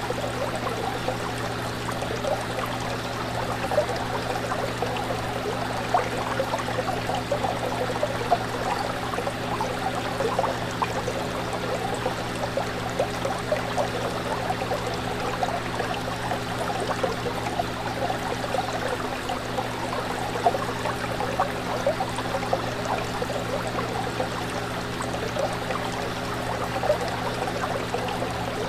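Fish tank water bubbling and trickling continuously, with many small pops and splashes, over a steady low hum.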